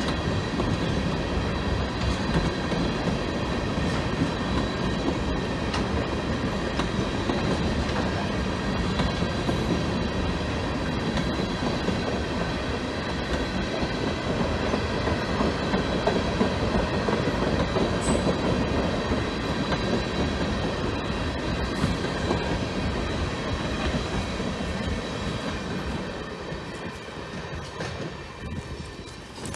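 Freight train of tank cars rolling past: a steady rumble of wheels on rail with a thin, steady high squeal from the wheels over it. The sound falls away over the last few seconds.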